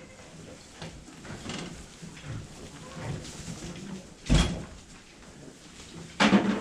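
Two loud knocks, about two seconds apart, the second longer and rougher, over quiet barn background noise.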